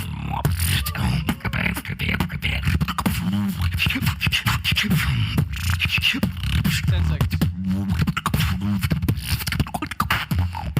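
Solo beatboxing: a dense stream of drum-like vocal kicks, snares and clicks over a deep, wobbling bass line.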